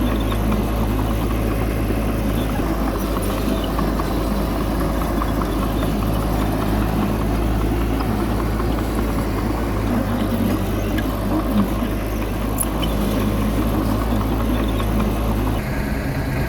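Heavy diesel engine of earthmoving machinery running steadily at a constant speed. Its note shifts slightly about a second before the end.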